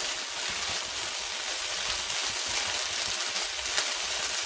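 Crushed onion-and-tomato masala sizzling steadily in hot oil in a wok, with a fine crackle. The masala is well fried, with ground spices just heaped on top.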